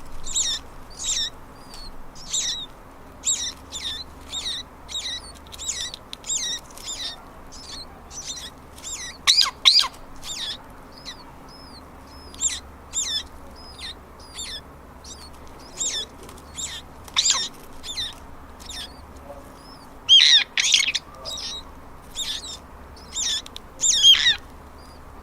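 Sparrows chirping: short, high chirps repeat about twice a second, with louder bursts of chirping several times.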